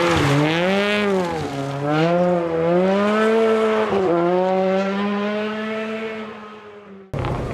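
Rally car engine revving up and down several times through the gears, then holding a steady note as the car drives away and fades. Near the end the sound cuts abruptly to steady outdoor background noise.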